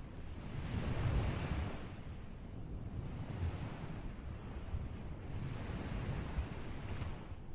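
Ocean waves breaking and washing up a beach, with a big surge about a second in and softer swells after it. Wind buffets the microphone with a low rumble underneath.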